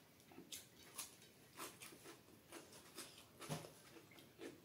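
Close-miked chewing with the mouth closed: soft, irregular wet mouth clicks and smacks, a few each second.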